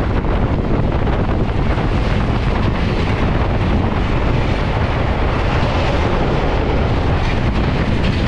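Loud steady rush of wind and running noise from trains at speed, heard at an open carriage window as another express passes close by on the next track.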